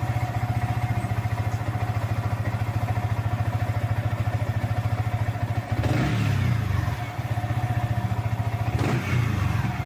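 Yamaha R15's single-cylinder engine idling with a steady rhythmic pulse, blipped briefly twice, about six and nine seconds in. It is being run to check that the charging system works with a newly fitted regulator-rectifier.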